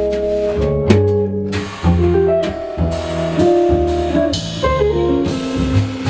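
A jazz trio playing live.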